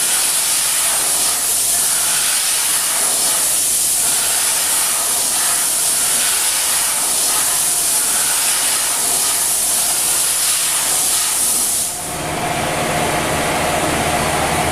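A loud, steady hiss of a jet blowing or spraying, workshop cleaning of the kind used on a crankshaft. About twelve seconds in, the hiss stops and a lower, steady machine hum takes over.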